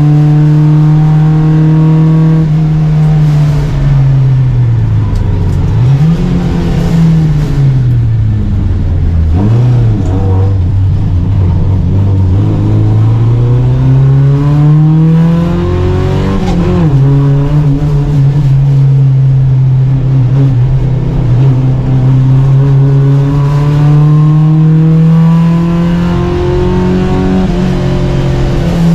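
Volvo Amazon 121 race car's four-cylinder engine at racing speed. It runs high, drops as the car slows with two quick blips of revs, then climbs steadily through the gears with a sharp dip at each gear change.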